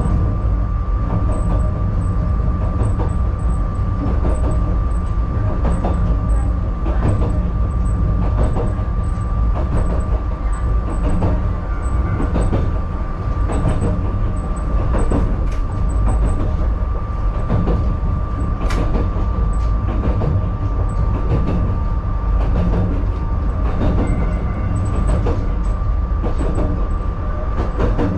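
Yokkaichi Asunarou Railway 762 mm narrow-gauge electric train running along the line, heard from inside the driver's cab: a steady low rumble with a steady whine over it and scattered clicks of the wheels over the track.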